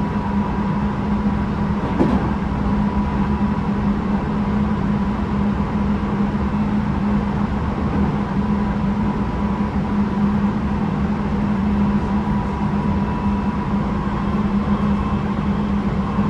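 Interior running sound of a Tobu 9050 series electric train's motor car travelling at steady speed: continuous wheel and track rumble with a steady low hum and a thin steady tone. A single brief click about two seconds in; the air conditioning is running.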